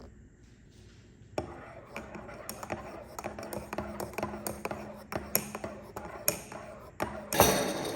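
Kitchen utensils and dishware clicking and knocking in irregular strokes, about two or three a second. Near the end comes a short, louder scraping rush.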